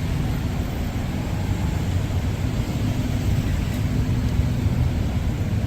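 Steady low rumble of a busy city street, with traffic noise and general hubbub and no distinct single event.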